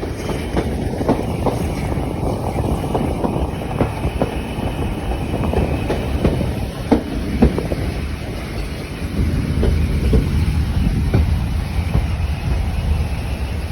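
A heritage railway train running along the track: a steady low rumble with irregular clicks and knocks from the wheels passing over rail joints.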